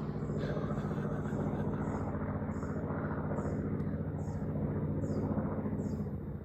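Aircraft engine drone from an air show plane flying low overhead, steady and fading near the end. A bird chirps over it at a regular pace, about once a second.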